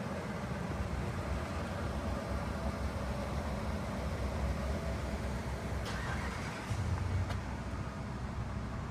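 1977 Cadillac Eldorado Biarritz's V8 running with a steady low rumble and a haze of road or wind noise, the rumble swelling slightly about seven seconds in. Two brief clicks come about six and seven seconds in.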